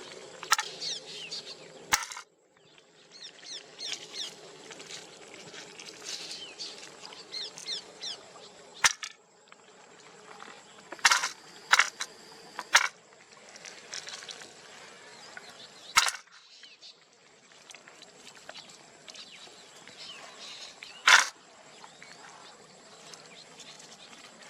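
Outdoor ambience with birds chirping, broken by a handful of sharp clicks or knocks, several clustered near the middle.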